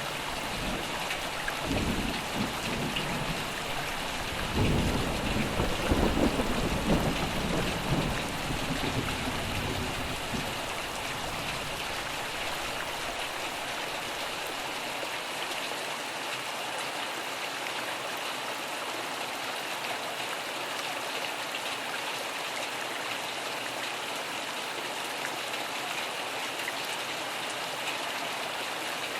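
Steady heavy rain falling, with a rumble of thunder that builds about four seconds in and dies away by about twelve seconds in, leaving only the rain.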